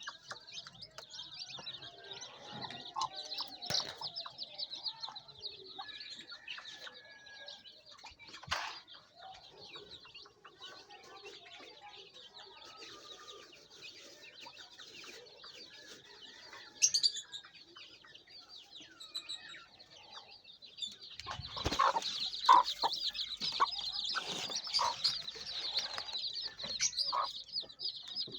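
Chickens: a constant high peeping of chicks with hens clucking. About three quarters of the way through it grows louder, with wing flapping and sharper clucks.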